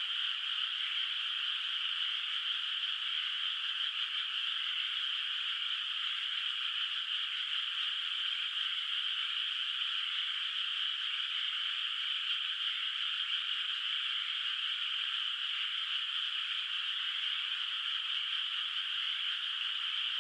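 Chorus of many frogs calling in a flooded rice paddy at night, their calls overlapping into a steady, unbroken trilling din.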